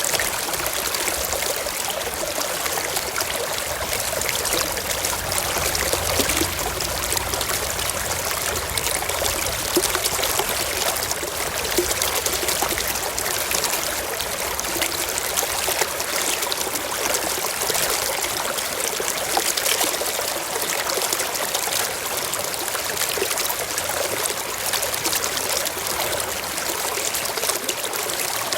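A shallow stream running and trickling over rocks, a steady close rush of water with small splashes.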